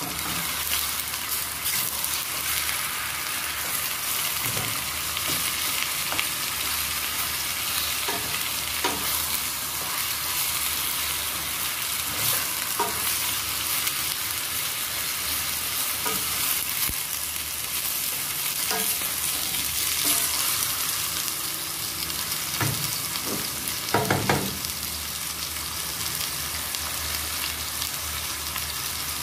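Chicken pieces and sliced red onion sizzling as they sauté in a stainless steel pot. They are stirred with a wooden spoon that knocks against the pot now and then, with a quick cluster of knocks about 24 seconds in.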